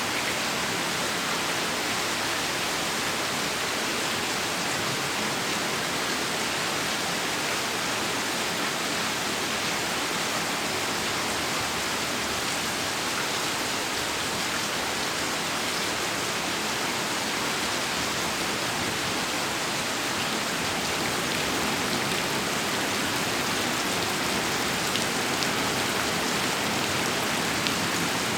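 Heavy rain pouring steadily, a little louder in the last few seconds.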